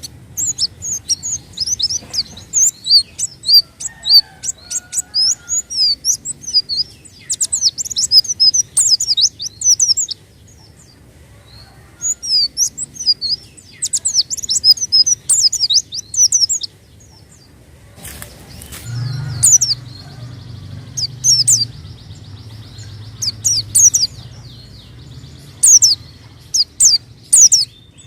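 Pleci (white-eye) singing: rapid runs of high-pitched chirps in bursts of a few seconds, broken by short pauses.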